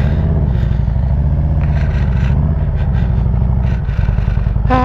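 Harley-Davidson Road Glide Special's V-twin engine running steadily under way, its low firing pulses holding a fairly even pitch.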